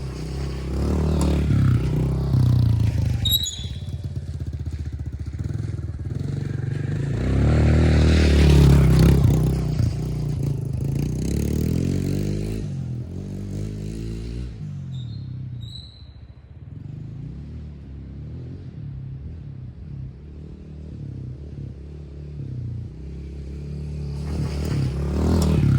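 Pit bike engine revving and running as it is ridden up to and over a dirt jump, its pitch and loudness rising and falling with the throttle; it drops back about halfway through and comes back louder near the end.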